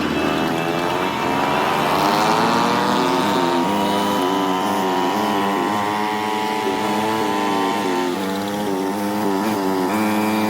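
Small single-cylinder pit bike engine running under way. Its pitch rises and falls repeatedly as the throttle opens and closes and the rider shifts gears.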